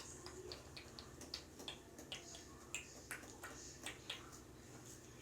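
Slime being stretched and worked by hand: faint, irregular sticky clicks and small pops.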